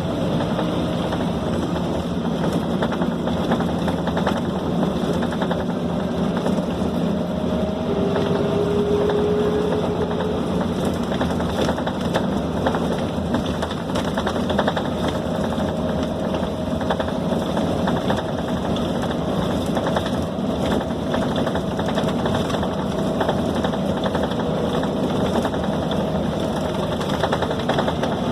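Scania K270 city bus running on the move, heard from inside the passenger cabin: a steady engine and drivetrain drone with constant rattling from the bodywork. A faint whine rises slowly in pitch.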